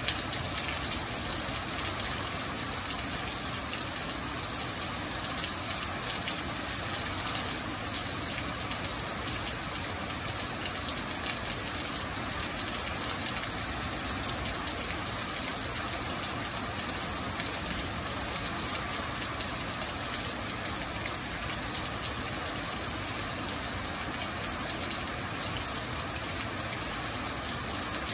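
Steady rain falling on wet pavement and a walkway, an even, unbroken hiss.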